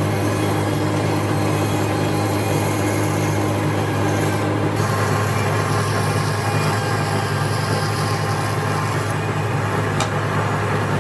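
A machine motor running steadily with a low, even drone.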